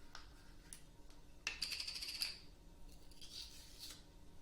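Metal measuring spoons jingling and clinking together, a short rattle about one and a half seconds in, with a few small clicks before it and a fainter jingle near the end, as a teaspoon is picked out to measure crushed red pepper flakes.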